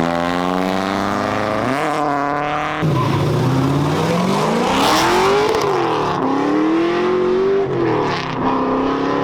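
Drift car engine revving hard, its pitch climbing and falling again and again as the car slides, with a burst of tyre noise around the middle.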